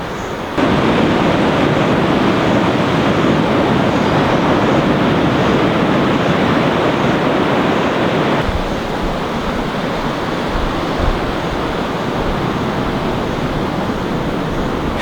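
Steady rushing noise of ocean surf breaking along the shore. It is louder for the first half and drops a little about eight seconds in.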